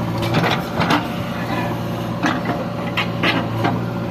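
Heavy diesel engine running steadily, with several short clanks or scrapes over it, about a second in and twice more near the end.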